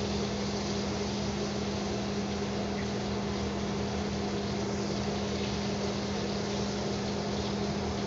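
Chicken breast frying in butter in a skillet, a steady sizzle, over a constant low hum.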